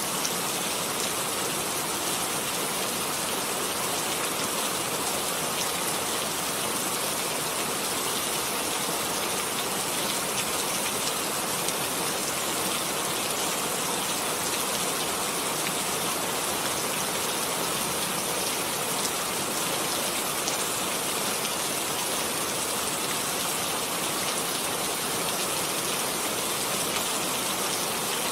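Steady rain falling, an even hiss of many drops with fine patters, unchanging throughout.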